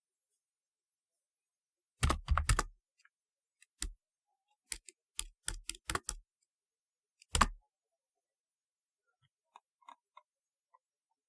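Typewriter-style computer keyboard being typed on in short, halting spurts. After a pause there is a quick run of keystrokes about two seconds in, then single key presses spaced out over the next few seconds, another short run midway, and a few faint clicks near the end.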